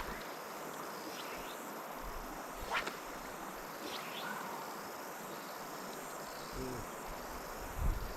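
Steady chorus of cicadas buzzing, with a few brief sharp chirps cutting through it.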